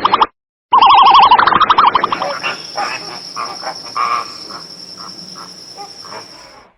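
A loud warbling animal call with a fast wobble in pitch, followed by a series of shorter calls that fade away, over a steady high-pitched whine.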